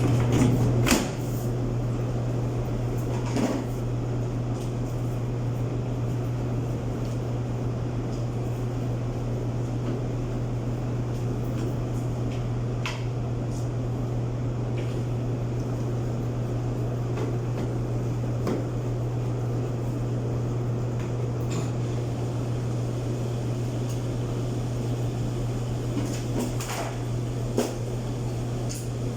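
Clothes dryer running on a test after its drum housing bearing was replaced: a steady low motor hum with an even rushing noise and a few light knocks, the plainest about a second in.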